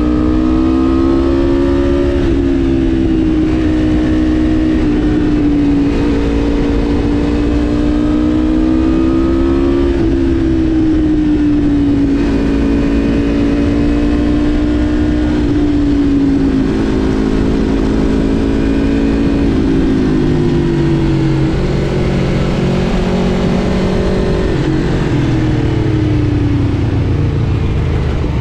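Aprilia RSV4 Factory's V4 engine running under way, its pitch rising and falling gently with the throttle, then dropping lower and wandering in the last several seconds. A steady low rush runs underneath.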